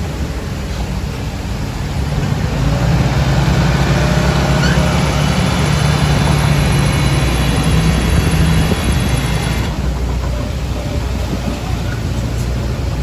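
Heavy diesel earthmoving machine working under load, its engine rising in level about two seconds in, with a high steady whine over it that cuts off suddenly near the end.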